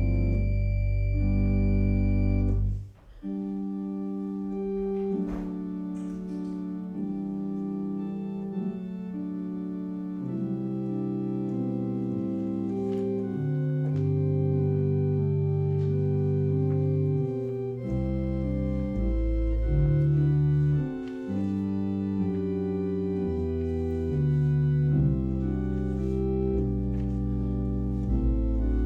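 Organ music of slow, sustained chords. A held chord cuts off about three seconds in, then a new passage begins, with deep bass notes joining later.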